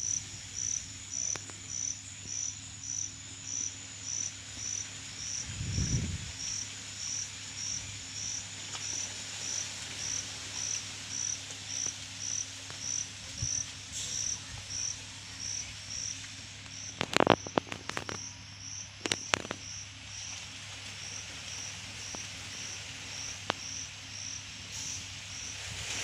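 An insect chirping in a steady, even rhythm, about one and a half high chirps a second. A few sharp clicks come a little past the middle.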